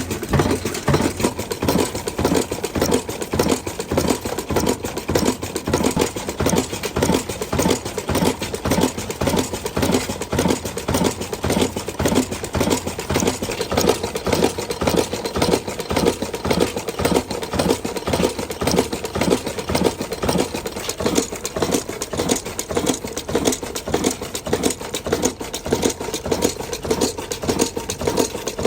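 Old 22 HP black diesel engine running steadily, its exhaust beating in an even, unbroken rhythm.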